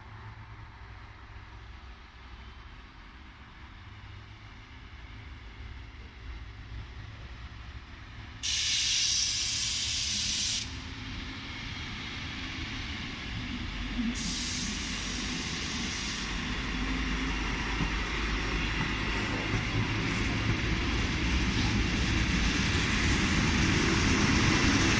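Czech Railways RegioNova diesel railcar approaching, its engine and rail rumble growing steadily louder. Two bursts of air hiss, each about two seconds long, start and stop abruptly about eight and fourteen seconds in.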